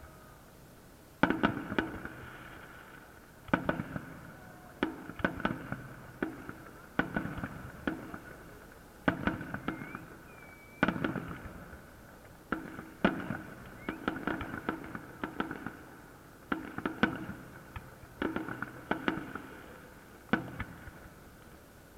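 Fireworks salute: volleys of sharp bangs every second or two, often several in quick succession, each dying away over about a second.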